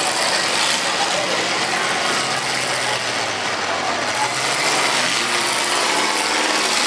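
Demolition derby car engine running loud and rough as the car drives across a dirt arena.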